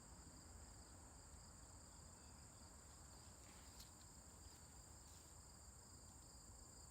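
Faint, steady high-pitched chorus of insects such as crickets, with a few faint ticks.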